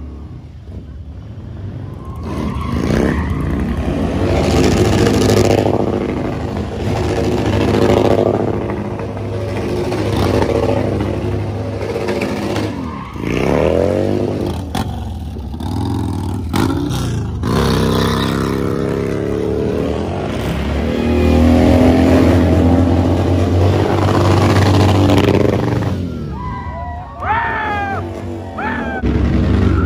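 Motorcycle engines revving hard over and over, the pitch rising and falling, with short high squeals near the end.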